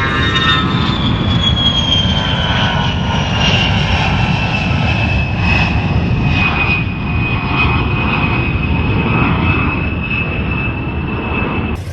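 Jet airplane flying past: a steady rumble under a high engine whine that slowly falls in pitch, cutting off abruptly near the end.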